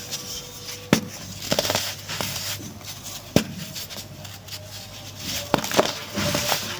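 Pressed white baking soda crumbling: irregular sharp cracks and crunches with a soft powdery hiss between them, over a low steady hum.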